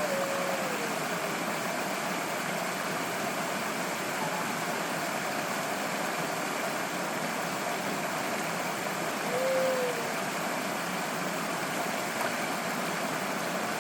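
Steady rush of a mountain stream, with a short falling tonal call at the start and again about nine and a half seconds in.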